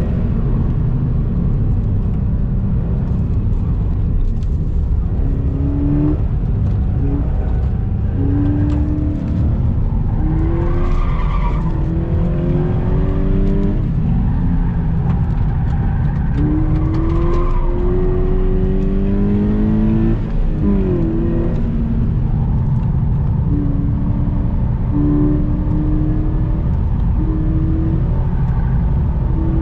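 Subaru BRZ's flat-four boxer engine pulling hard on a racetrack, its pitch climbing and dropping back again and again as the driver works through the gears and corners. The tyres squeal briefly twice, about a third and about three fifths of the way through.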